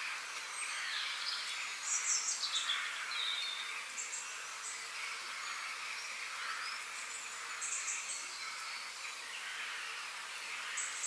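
Forest ambience: small birds calling in short high chirps and quick falling phrases, loudest about two seconds in and again near eight seconds, over a steady high hiss.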